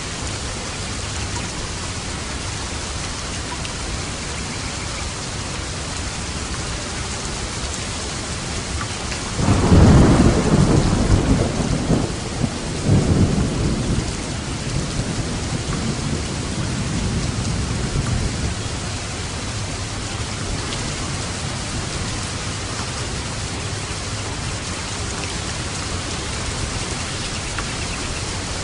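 Steady heavy rain with a thunderclap about a third of the way in: the thunder rumbles in two surges a few seconds apart, then rolls away over several seconds while the rain keeps falling.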